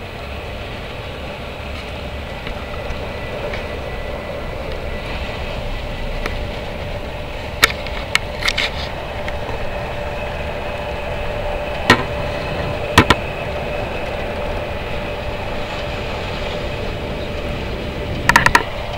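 Cabin ride noise of a Thalys high-speed train running at speed: a steady rumble and hiss with a faint steady hum. The noise is broken by a few sharp clicks, single and in quick clusters, in the middle and near the end; these are the loudest sounds.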